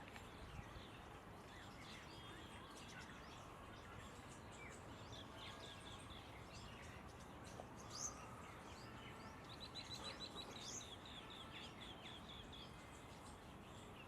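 Faint wild birds chirping and calling over a steady background hiss. About ten seconds in comes a quick run of short repeated high notes.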